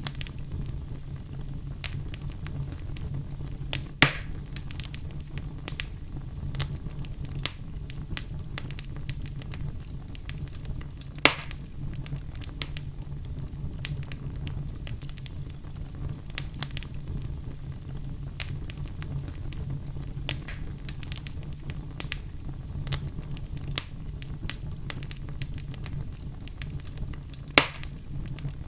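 Wood fire crackling in a fireplace: a steady low rumble of flames with irregular small crackles and pops, and three louder snaps at about 4, 11 and 27 seconds.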